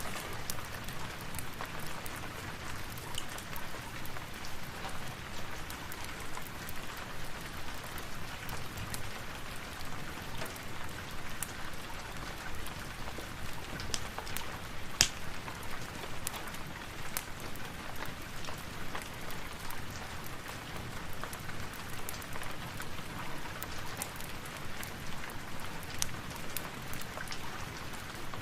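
Steady rain falling, with scattered sharp clicks and pops through it, one louder pop about halfway through.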